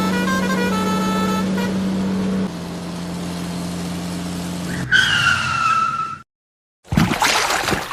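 Vehicle sound effects: a steady engine hum with a short beeping tune over it, then a tyre skid screech falling in pitch about five seconds in. The sound cuts out briefly and a loud rough noisy burst follows near the end.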